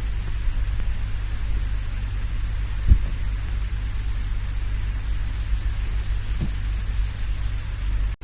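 A steady low rumble with a faint hiss, and two soft thumps, one about three seconds in and one near six and a half seconds.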